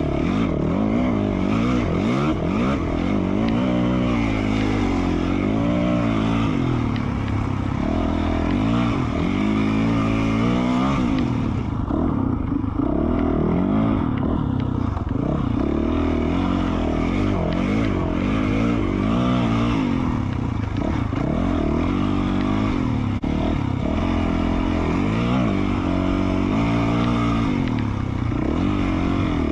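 2020 Yamaha YZ450F's single-cylinder four-stroke engine through an FMF Q4 slip-on exhaust, revving up and down continuously as the throttle is worked along a trail. The engine eases off for a couple of seconds about twelve seconds in.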